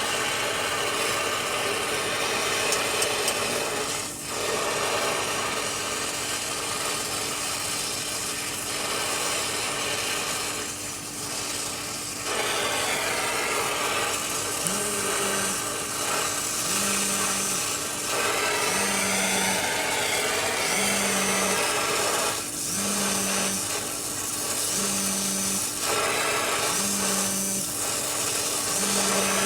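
Tool work with a rasping, rubbing sound, like a power tool or file working a surface, over a faint steady hum. From about halfway, a short low tone repeats about every two seconds.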